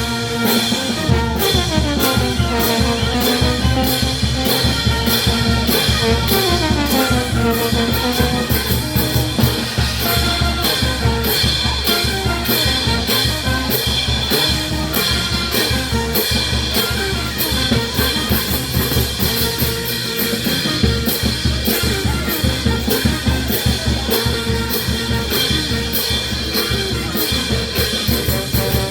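Peruvian brass band playing: trumpets and trombones over a steady drum-and-cymbal beat, with descending brass runs in the first several seconds.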